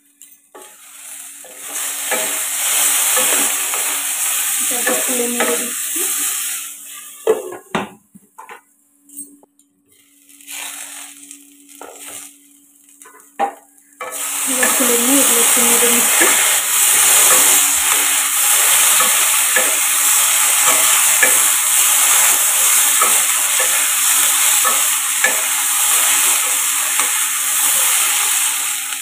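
Mixed vegetables, including drumstick pieces and flat beans, sizzling in oil in a nonstick kadai, stirred with a wooden spatula. The sizzle breaks off for several seconds of scattered clicks and knocks, then comes back loud and steady with small crackles from about halfway through.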